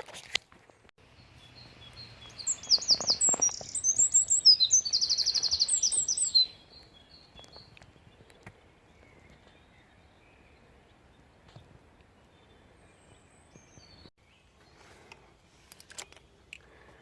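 A songbird singing one long song of high, fast trills and chirps, lasting about four seconds and starting about two seconds in. After it only faint background sound and a few soft clicks remain.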